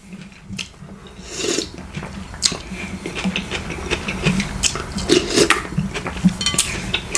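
Eating sounds: irregular clicks and scrapes of utensils against a dish, with mouth sounds from chewing food.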